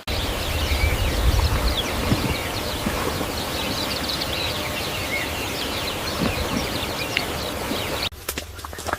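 Many small birds chirping at once, a thick layer of short falling chirps over a steady background noise, with a low rumble in the first couple of seconds. It cuts off suddenly near the end.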